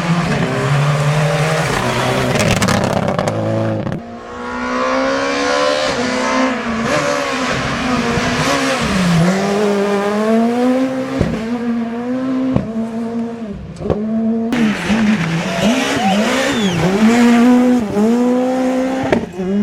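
Rally cars driven hard on a stage: engines revving high, the note climbing through the gears and dropping sharply at each shift or lift off the throttle. The sound switches abruptly to a new car about four seconds in, and again near fifteen seconds.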